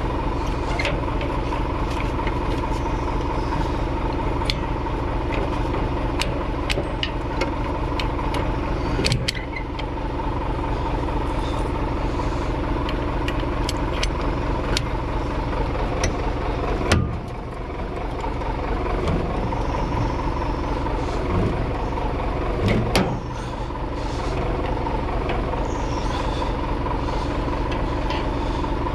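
Scania truck's diesel engine idling steadily, with scattered sharp clicks and knocks as ratchet straps are worked tight.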